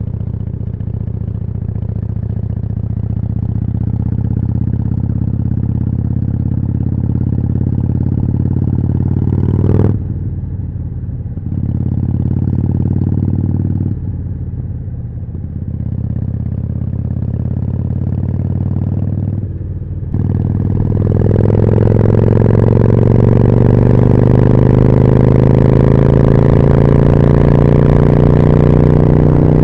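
Harley-Davidson Forty-Eight's V-twin engine with a Jekill & Hyde exhaust, running under way. The note breaks off briefly three times, then about two-thirds of the way in it grows louder and climbs steadily in pitch as the bike accelerates.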